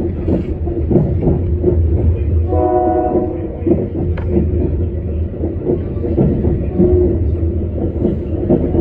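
Metra commuter train running, heard from inside a passenger car: a steady low rumble with scattered wheel clicks. A train horn sounds a short chord about two and a half seconds in, and sounds again right at the end.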